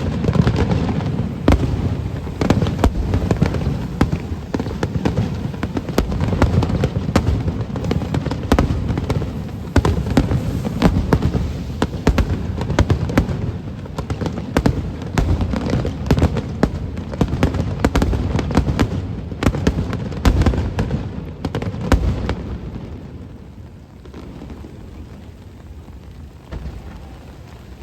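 Fireworks display in a dense barrage: many sharp bangs and low booms in quick succession, with rumbling echo between them. About 22 seconds in the bangs die away, leaving a steadier, quieter hiss.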